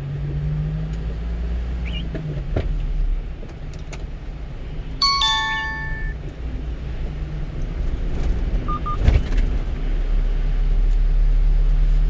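Steady low engine and road hum inside a driving 1-ton truck's cab. About five seconds in, an electronic chime of several ringing tones sounds, followed near nine seconds by two short beeps and a single knock.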